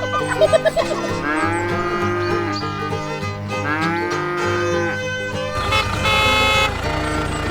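A cow mooing twice, each moo a long call that rises and falls in pitch, over upbeat background music.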